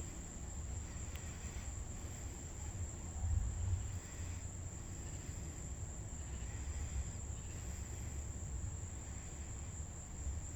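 Insects, likely crickets, trilling steadily on one high note, over a low rumble that swells briefly about three seconds in.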